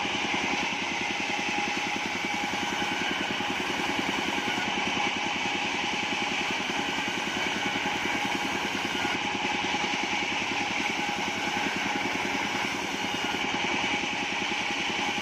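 Engine-driven band sawmill running steadily, its motor's fast even beat holding constant with a couple of steady whining tones over it.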